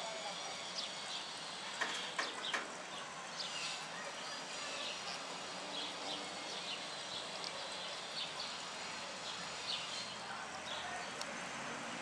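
Small birds chirping: short high chirps scattered throughout over a steady hiss, with three sharp clicks about two seconds in.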